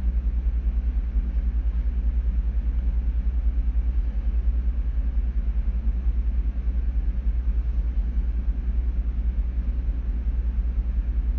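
Ship's engine room machinery running: a loud, steady, low rumble with a fast, even pulse.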